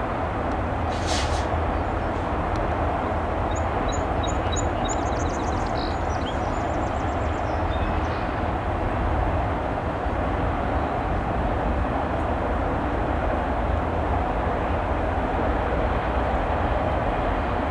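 Freight train rolling past at a steady speed: a continuous low rumble with wheel and rail noise that stays even throughout.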